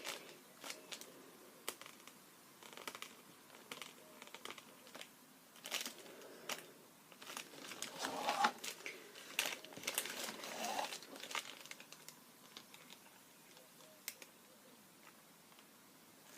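Faint, scattered taps, scratches and paper crinkling from hands working a pen and paper on an art page, busiest about halfway through.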